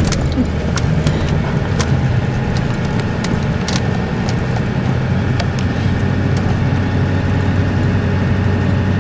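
Steady engine and road noise heard from inside a moving truck's cab, with a few light clicks and rattles in the first few seconds.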